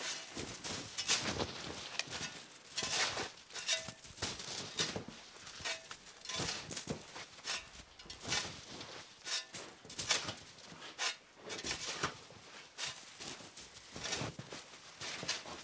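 Irregular crunching and scuffing in wet snow, about one or two sharp crunches a second, like footsteps.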